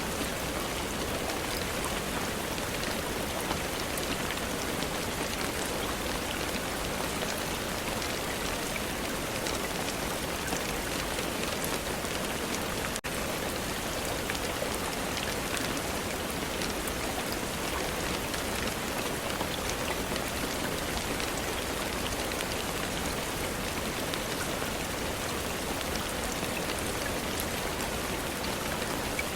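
Steady rain falling, an even hiss dotted with many small drop ticks, with a split-second gap about halfway through.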